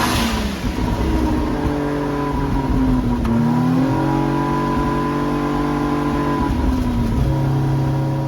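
Mazda 20B-REW three-rotor twin-turbo rotary engine running. The revs fall back right at the start, rise slightly a few seconds in and hold steady, then drop to a lower, steady idle about seven seconds in.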